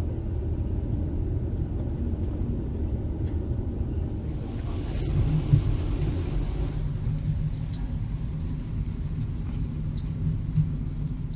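Low, steady running rumble of a passenger sleeper train, heard from inside the coach. About four seconds in a brighter hiss joins it, with a few faint clicks.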